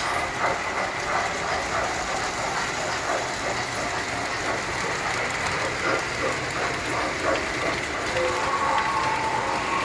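Tinplate toy trains running on the layout: a steady whir of motors and gears with many small clicks of wheels over the track, and a steady high whine throughout.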